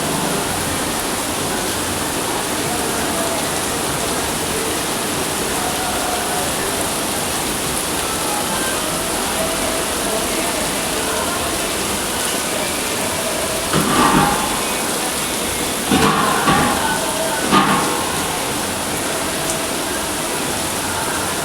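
Heavy rain falling steadily, a constant rushing hiss. Faint voices sound in the background, with a few short louder calls about two-thirds of the way through.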